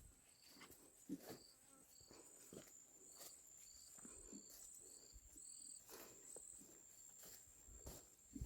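Faint insect chirping: short high chirps repeating about twice a second over a steady high-pitched drone, with light scattered rustles.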